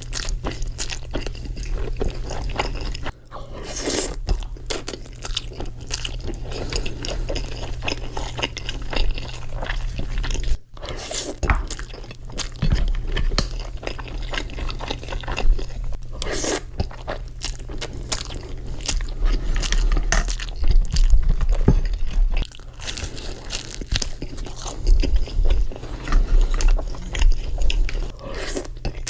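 Close-miked mukbang eating sounds: chewing and biting a mouthful of creamy pasta, with many wet mouth clicks and smacks in an irregular run.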